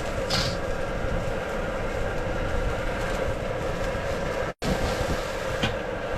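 Steady rushing of a gas cooking burner running under a pot of steaming ribs, with a short sharper hiss about half a second in.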